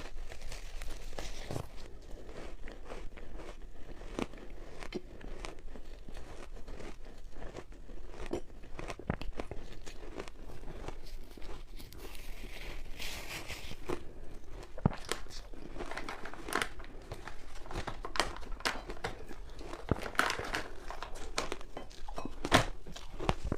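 Crunchy ice dusted with matcha powder being bitten and chewed close to the microphone: an irregular run of sharp crunches and crackles, with a few louder cracks near the end.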